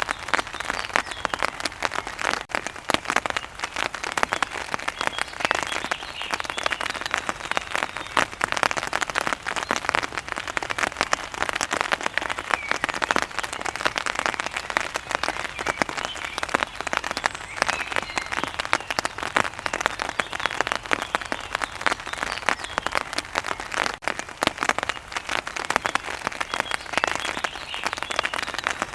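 Steady heavy rain, a dense, continuous patter of drops hitting a surface.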